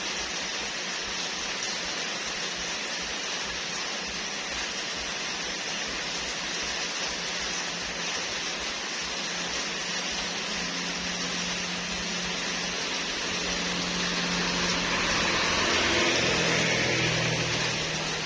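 Steady rain, an even hiss, growing a little louder in the second half, with a low hum coming in partway through.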